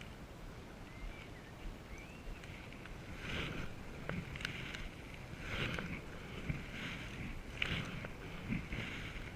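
Canoe paddle strokes in the water, a short splash roughly every second from about three seconds in.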